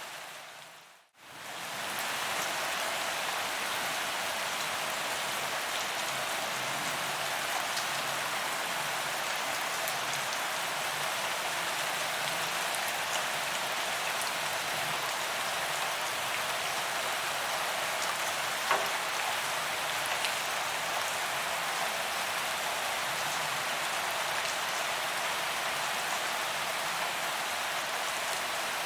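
Steady rain falling on a paved walkway, an even hiss of drops striking the pavement with occasional single drop ticks. About a second in, the sound briefly dips almost to silence, then returns at full level.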